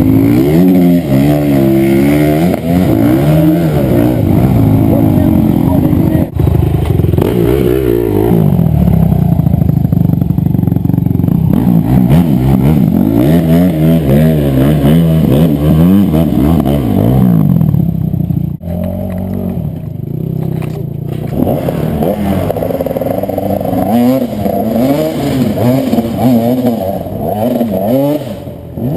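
Enduro motorcycle engines revving hard, their pitch rising and falling again and again as the bikes are worked through a stream crossing, with a short lull about two-thirds of the way in.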